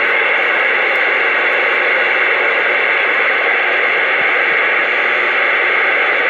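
CB radio hissing with loud, steady static while no one is talking on the channel.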